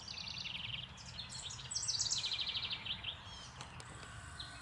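Songbird singing over a low background hum: a short trilled phrase at the start, then a longer, faster trill about two seconds in.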